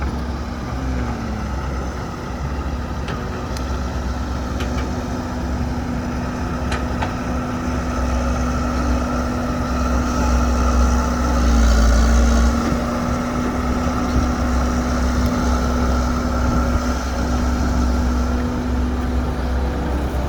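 Heavy diesel engine of an excavator loading a dump truck, running steadily and briefly louder about twelve seconds in.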